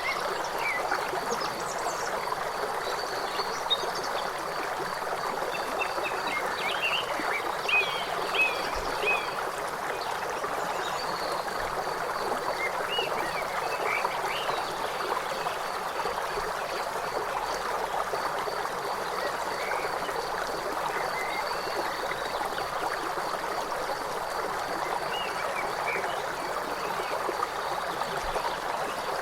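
Steady rushing of a river, with short bird chirps, a cluster about seven to nine seconds in and more scattered later, over a faint high trill that pulses evenly throughout.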